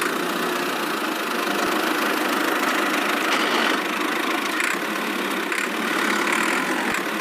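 Steady whirring of a small motor driving a miniature model machine.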